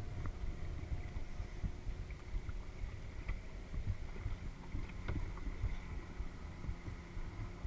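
Kayak moving on lake water, heard through a GoPro: a steady low rumble of water and hull with a few faint knocks, one about five seconds in.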